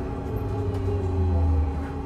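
VMZ Avangard trolleybus's electric traction drive whining and humming. A tone slides slowly down over the first second and a half while a deep hum swells, then eases near the end.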